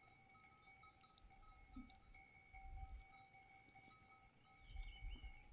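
Faint clinking and ringing of bells on a flock of sheep and goats, with a few low rumbles of wind on the microphone.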